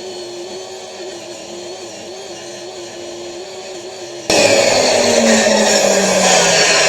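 Power saw running with a steady hum. About four seconds in it gets much louder as the blade cuts into wood, and its pitch drops as it slows in the cut. The saw is cutting poorly, and the woodworker thinks the blade is already dull.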